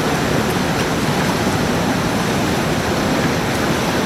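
Fast river water rushing through whitewater rapids: a loud, steady wash of noise.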